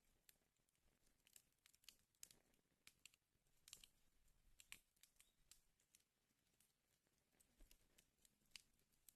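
Wood fire burning in a fireplace, crackling with faint, irregular pops and snaps at the rate of a few a second.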